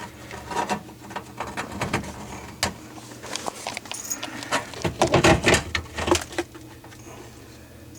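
Hand-handling of a dishwasher drain hose and its metal hose clamp: scattered clicks and light metallic rattles, with a busier run of knocks and rattling about five to six seconds in.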